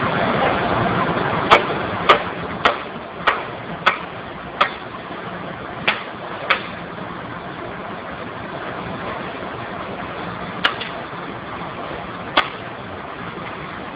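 Steam boiler running: a steady rushing noise that eases down a little after the first few seconds, broken by about ten sharp clicks, six in quick succession at first, then a few scattered ones.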